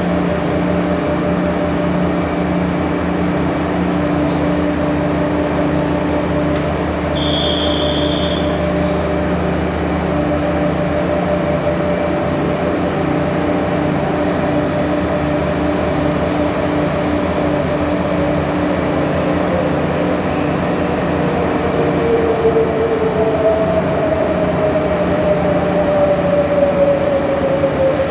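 Trains at an underground railway platform: a steady low rumbling hum with a regular throb from a train standing at the platform, and a short high beep about seven seconds in. In the last few seconds a commuter electric train moves along the platform, its motor whine falling in pitch as it slows.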